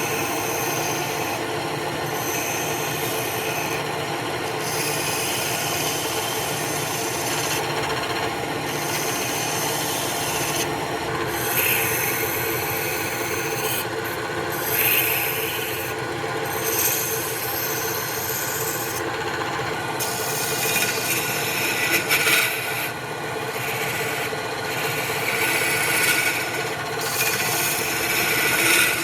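Wood lathe running, with a steady rasping of something held against the spinning wood blank. The rasping comes and goes every second or two over a continuous motor hum.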